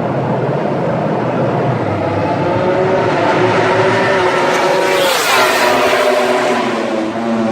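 Racing motorcycle at full throttle approaching, passing close by about five seconds in, its engine note then dropping in pitch as it moves away.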